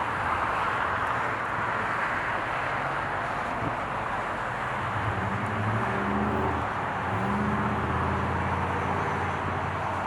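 Steady rushing noise of jet aircraft engines, joined about halfway through by a lower droning hum that fades near the end.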